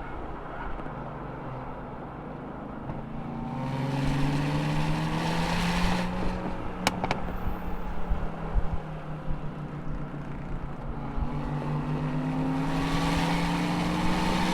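Muscle car engine under hard acceleration on a race track, its pitch climbing, easing off, then climbing again, over a steady low wind rumble. Two sharp clicks come about seven seconds in.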